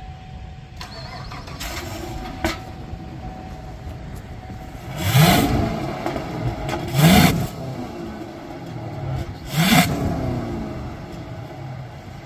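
Fifth-generation Chevrolet Camaro SS 6.2-litre V8 idling through an X-pipe and NXT axle-back exhaust, revved sharply three times, each rev rising quickly and dropping back to idle. The engine is otherwise stock, with no cam.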